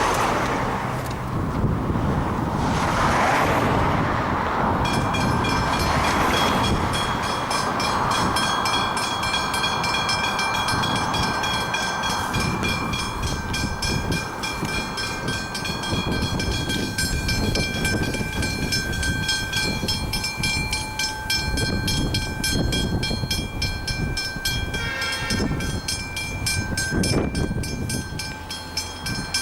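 Level crossing bells ringing rapidly from about five seconds in, over the low rumble of approaching Victorian Railways diesel locomotives; a train horn sounds briefly near the end.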